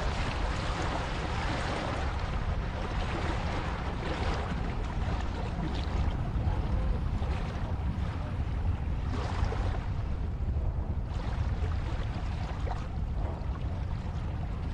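Ocean waves washing onto a shore: a steady rush of surf that swells and eases every few seconds, as a sleep soundscape.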